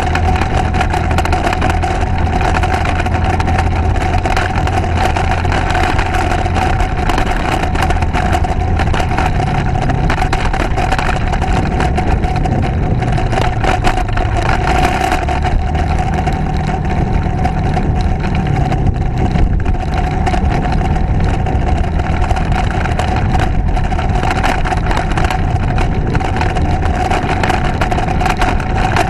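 Motorcycle engine running steadily while riding along, under a constant rush of road and wind noise; the engine note shifts slightly now and then.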